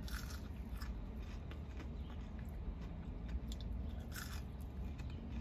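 A person biting into and chewing a McDonald's chicken nugget, with small crunches from the breading, over a steady low hum.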